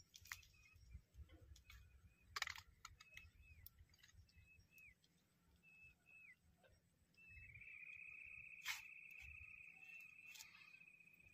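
Near quiet lakeside air with faint high bird chirps and a few light clicks. About seven seconds in a faint steady high trill starts and runs for about four seconds.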